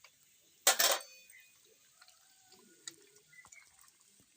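A short, loud wet splat about a second in, as raw chicken is mixed with its yogurt and spice marinade in a bowl, followed by faint clinks.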